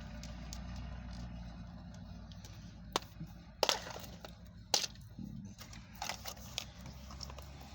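A plastic toy blind pack being handled and opened: a few sharp plastic clicks and cracks with light scraping and rustling, over a steady low hum.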